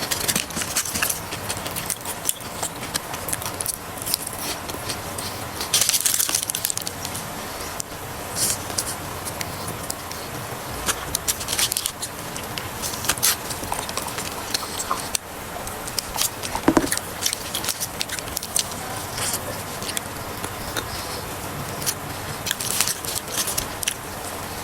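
Close-up eating sounds: crunching and chewing through a crispy, soft fried chicken burger, with many sharp crackles of the breading and wet mouth sounds, on and off.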